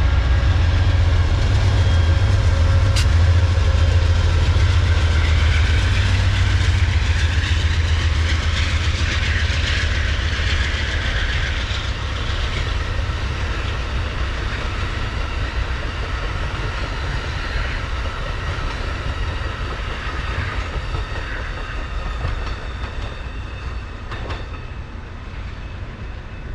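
Amtrak California Zephyr passenger train passing on the tracks. A deep low rumble is strongest in the first few seconds, and the sound fades steadily as the train goes by.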